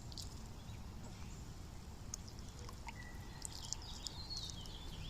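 Small birds chirping: scattered short high chirps, then from about three seconds in a thin held whistle and a falling warbled call, over a steady low background rumble.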